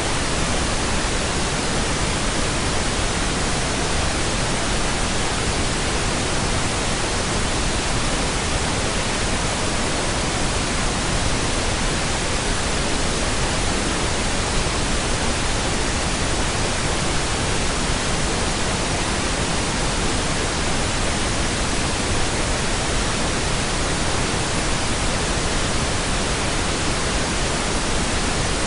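Steady pink noise: an even, unbroken hiss, unchanging throughout.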